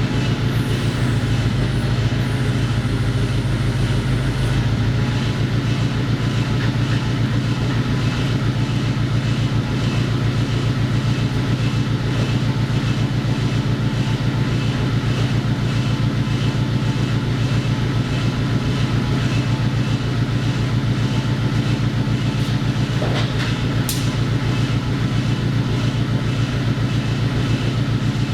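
An engine running steadily at a constant speed, with a fast even pulsing.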